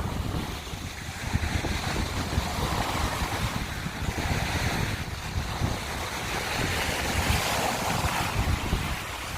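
Small sea waves breaking and washing over a shore of broken scallop shells, swelling and fading every few seconds, with wind rumbling on the microphone.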